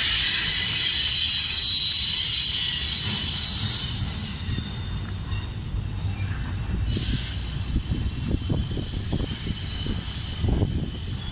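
CSX manifest freight train rolling past, its wheels squealing in several high steady tones over the low rumble of the railcars. The squeal fades about four seconds in and comes back for a few seconds near the end.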